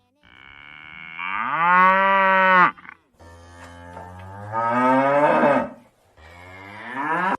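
Cow mooing three times, long drawn-out moos, the third cut off near the end.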